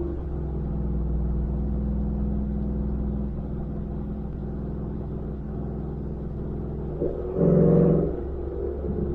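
Ford F-150 pickup with a Borla Atak cat-back exhaust, cruising under steady engine drone. About seven and a half seconds in there is a brief, louder pitched burst.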